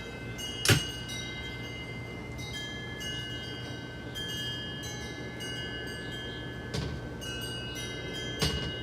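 Wind chimes ringing: overlapping metallic tones at several pitches, each ringing on, over a low steady hum. A sharp knock comes about a second in, and two more near the end.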